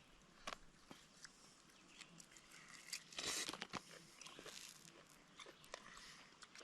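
Faint eating sounds from a meal of charred steak and asparagus: small clicks and crunches, with a louder crunchy burst about three seconds in.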